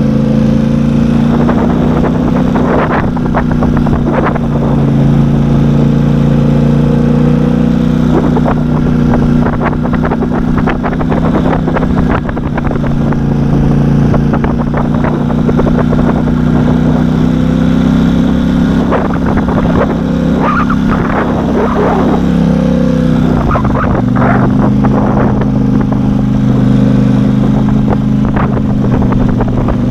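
Off-road vehicle engine running steadily under way, with rattling and knocking over rough, icy snow. The engine pitch drops about two-thirds of the way through, then holds steady again.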